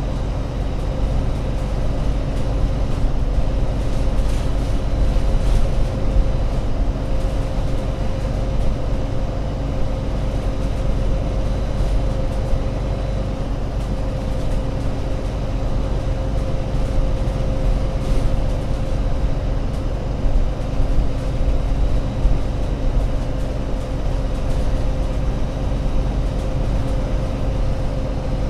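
Alexander Dennis Enviro500 MMC double-decker bus's Euro 6 diesel engine running steadily: a low rumble with a steady whine over it, unchanged throughout.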